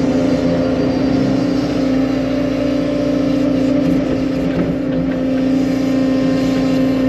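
Skid steer loader's engine running steadily at a constant pitch.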